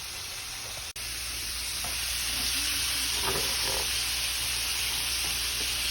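Chicken pieces deep-frying in hot oil in a skillet, a steady sizzling hiss. It breaks off for an instant about a second in, then comes back a little louder.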